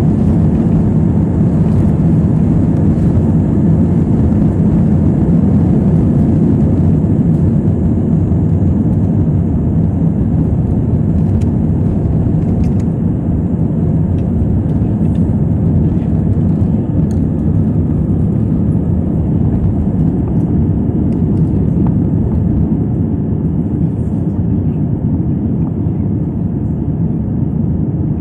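Jet airliner's engines and airflow during take-off, heard as a loud, steady low rumble with a faint hum running through it, easing slightly near the end.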